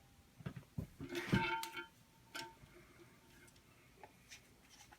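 Small plastic parts of a Delta Flush IQ flush unit being handled and unscrewed: scattered light clicks, with a short run of clicks and a brief squeaky creak about a second in, then only faint ticks.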